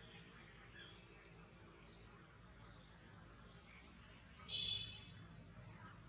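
Small songbirds chirping: a scatter of short, high, downward-sliding chirps, busiest and loudest in a quick run about four to five and a half seconds in.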